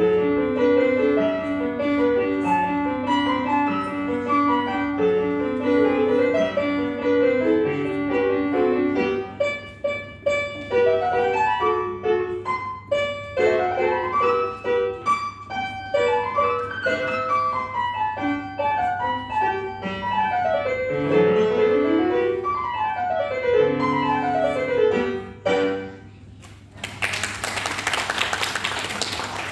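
Solo piano played live, with fast rising and falling scale runs from about nine seconds in. The piece ends a few seconds before the end and a short burst of audience applause follows.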